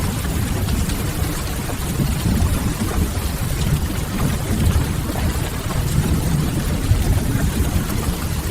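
Steady rain mixed with the crackle of a wood fire in a continuous ambience bed, carried on a heavy, even low rumble.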